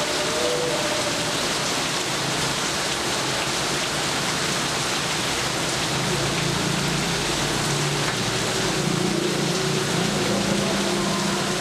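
Steady rain falling, an even dense hiss with no thunder claps. A faint low hum sits under it in the second half.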